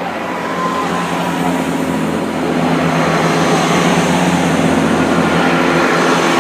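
Class 166 diesel multiple unit's underfloor diesel engines running loudly as the train pulls out. A steady drone that builds a little about halfway through.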